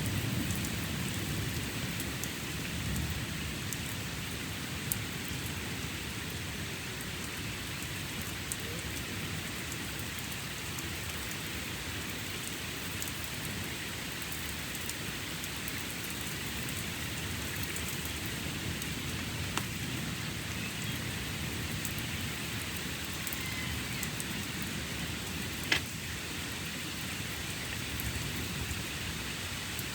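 Steady heavy rain falling, with a low rumble of thunder in the first few seconds and a few sharp drip-like clicks, the loudest about three-quarters of the way through.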